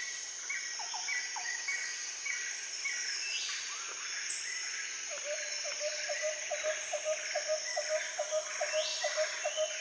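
Outdoor ambience: a steady high insect drone, with short chirping calls repeated about twice a second in the first few seconds, then a lower call repeated about three times a second from about halfway.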